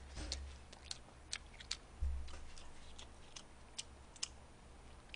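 Close-miked eating sounds: irregular soft clicks of chewing, with a low thud about two seconds in.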